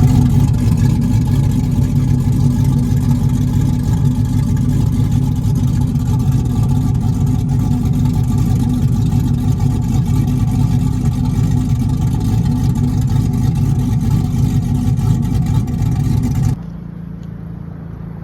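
A car engine running loudly at a steady speed, its exhaust note holding one pitch, then cutting off sharply about sixteen seconds in.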